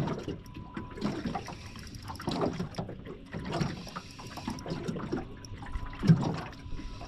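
Choppy water slapping and lapping against the hull of a small boat in a strong wind, in uneven surges about once a second.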